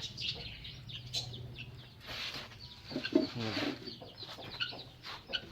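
Chickens: chicks peeping in short high chirps, and a hen clucking, loudest about three seconds in.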